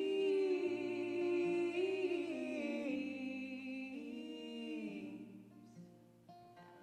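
Live band music: long, wordless sung or hummed notes over low held notes, fading away over the last couple of seconds.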